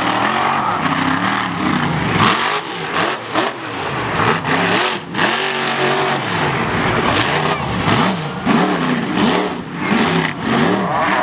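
A big engine revving hard, its pitch rising and falling over and over, with sharp cracks throughout.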